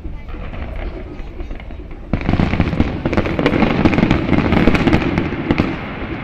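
Fireworks finale barrage: many shells bursting in quick succession, a dense crackle over a low rumble, growing much louder about two seconds in and easing off near the end.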